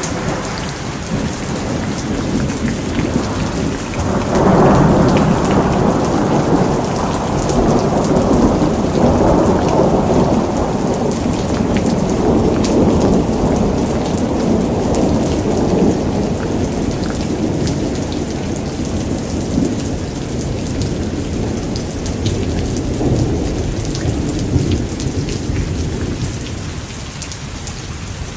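Steady rain with a long roll of thunder that swells about four seconds in and slowly fades over the next twenty seconds.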